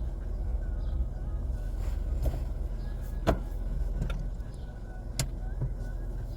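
Car engine idling, heard from inside the cabin as a steady low rumble, with two sharp clicks about three and five seconds in.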